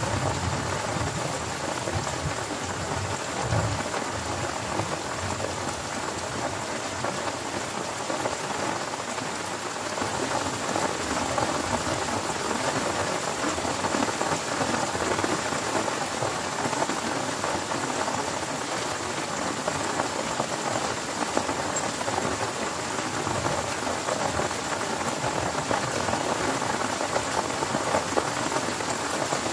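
Heavy rain pouring steadily. A low rumble of thunder dies away in the first few seconds.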